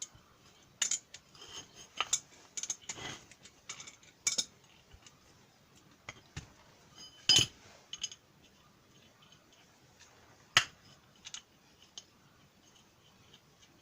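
Metal hand tools and parts clinking and knocking against each other in irregular single strikes, the loudest knock a little past halfway.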